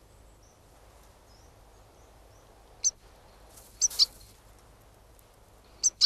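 Short, high, goldfinch-style contact chirps: a few faint ones early, then four clearer ones from about three seconds in, two of them close together. They are heard over a faint steady outdoor hiss.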